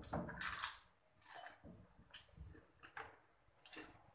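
Chewing and eating noises of people eating by hand: a run of short, irregular noises, loudest in the first second.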